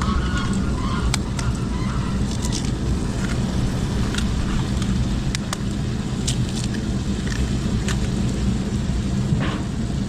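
A steady low machine drone, with scattered sharp clicks and knocks over it.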